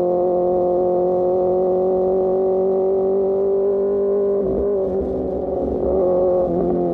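Superbike engine through an Austin Racing GP1R exhaust, cruising under steady throttle with its note rising slowly. About four and a half seconds in the throttle eases and the note roughens, then it picks up again at a slightly lower pitch near the end.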